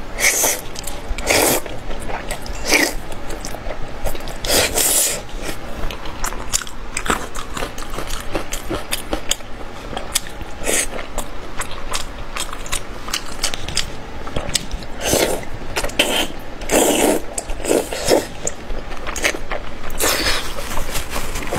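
A person biting and chewing spicy pork skin, a run of irregular sharp bites and chews, with heavier clusters of bites several times.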